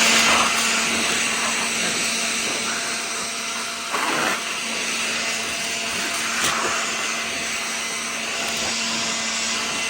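Electric vacuum-type motor running steadily at full speed, with a constant hum under a wide rushing air noise, used to de-dust stacks of old magazines.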